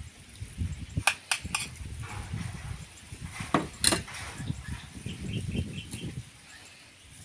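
Close-up eating noises: chewing and mouth sounds, uneven and low. A few sharp clicks come about a second in, and a louder one comes near the middle.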